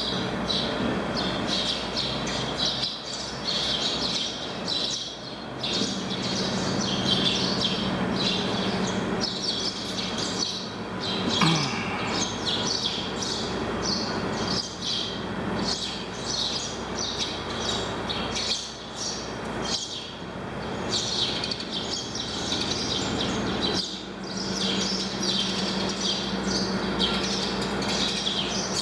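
Small birds chirping rapidly and continuously, over the low steady drone of a ferry's engines as it berths.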